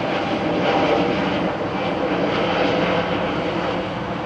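Jet airliner engines running loud and steady, a rushing noise that eases slightly near the end.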